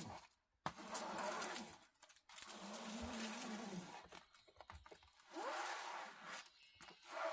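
Rustling and crinkling of a diamond painting canvas being handled and unrolled, in several bursts with short pauses between.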